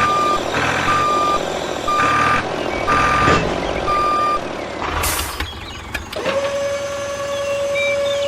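Vehicle reversing alarm beeping about once a second for roughly four seconds, then stopping. A short hiss follows, and about six seconds in a steady whine starts and holds.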